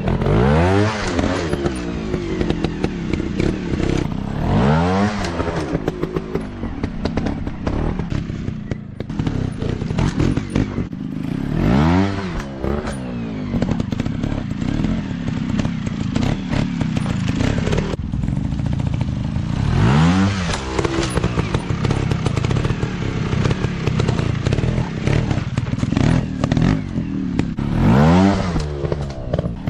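Off-road dirt bike engines running under load, revving up and dropping back sharply every few seconds, with some clatter.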